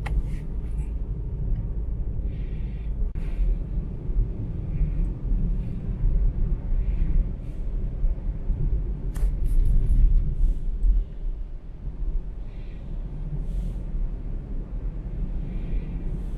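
Steady low rumble with a few faint clicks and ticks scattered through it.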